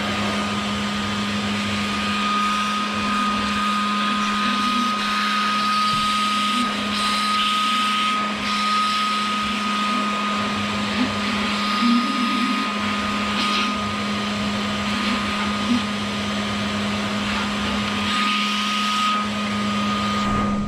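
Vacuum cleaner running steadily, sucking a packed rodent nest out of a Ford Zetec intake manifold, with a constant hum and a high whine over a rush of air. It cuts off suddenly at the end.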